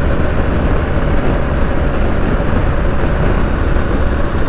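Steady wind rush and the running engine of a BMW R1250GS boxer-twin motorcycle, heard from the rider on the move at a constant speed.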